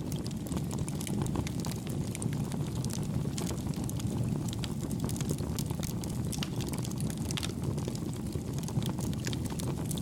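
Wood campfire burning, with a steady low rumble of flame and frequent small, soft crackles and pops from the burning wood.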